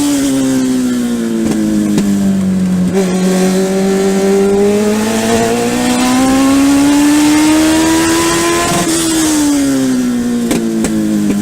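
Legend race car's Yamaha four-cylinder motorcycle engine under racing load, heard from inside the car. It drops in pitch at first, climbs steadily for several seconds under acceleration, then falls sharply as the throttle is lifted about nine seconds in and stays low.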